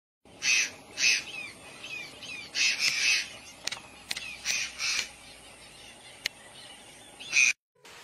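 Birds calling: loud short high calls in pairs and small clusters, with softer down-slurred chirps between them and a few sharp clicks, cutting off just before the end.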